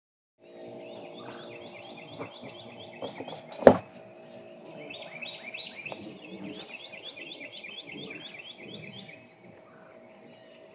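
A bird chirping in quick repeated runs of about five notes a second, over a steady low hum of several fixed tones. One sharp knock about three and a half seconds in is the loudest sound.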